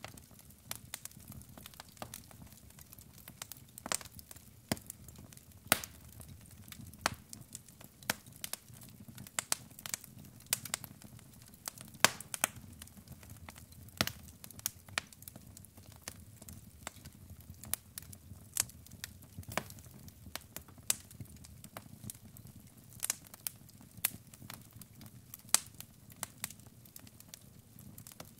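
Wood fire crackling: burning logs giving sharp, irregular pops and snaps over a low, steady rumble of flame.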